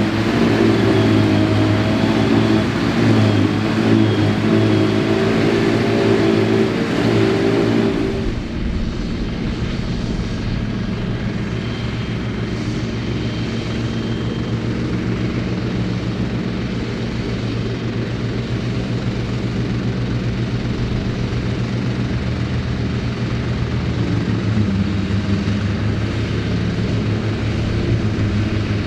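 Ford 8630 tractor's diesel engine running steadily under load with the Mengele SH40N forage harvester working. About eight seconds in, the sound changes abruptly to a quieter, lower, steady engine drone.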